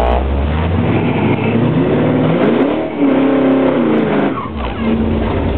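Chevy ZZ4 350 small-block V8 in a 1972 Nova, heard from inside the car, revving up and falling back twice, then dropping to a steady idle near the end.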